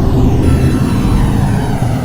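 R142 subway train rolling into the station and braking, a loud steady low rumble of wheels on rail with a faint whine from the electric motors falling in pitch as it slows.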